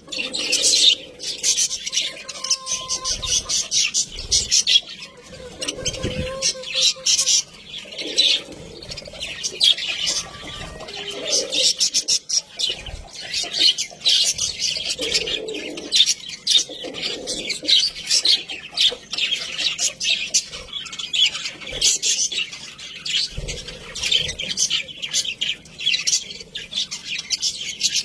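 Budgerigars chattering and warbling: a continuous stream of rapid, high chirps with occasional squawks, and a few brief low thumps.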